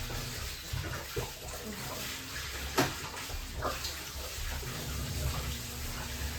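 Water splashing and sloshing as laundry is washed, with a sharp knock about three seconds in.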